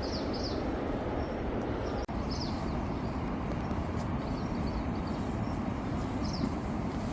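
Steady outdoor rushing noise, like running water or wind, with a small bird chirping briefly several times over it; the sound drops out for an instant about two seconds in.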